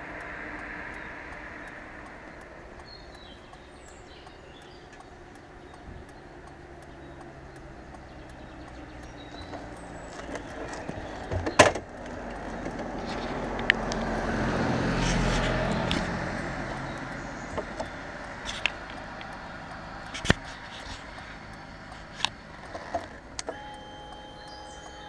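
Car on the move: a steady engine and road noise that swells and fades about midway, with scattered sharp clicks and knocks, the loudest a little before the middle.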